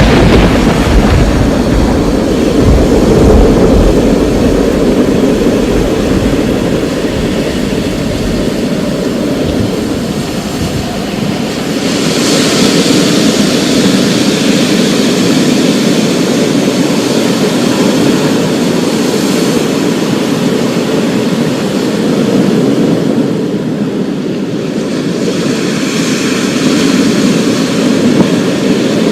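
Thunder rumbling low and dying away over the first eight seconds or so, over a steady downpour of heavy rain. The rain turns brighter and hissier about twelve seconds in.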